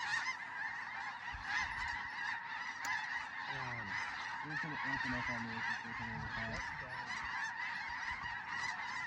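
A large flock of snow geese calling, a dense, unbroken din of many overlapping high honks.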